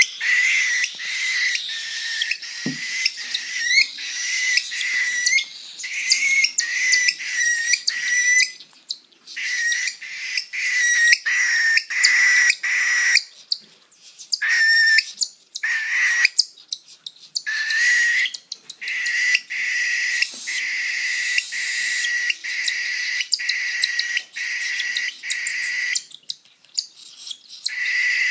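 Baby birds begging for food as they are syringe-fed: a run of high-pitched, piping calls at one steady pitch, broken by frequent short breaks and a few pauses of about a second.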